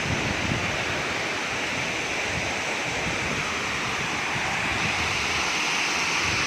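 Steady rushing of the Kuang Si waterfall's cascades, with light wind buffeting the microphone.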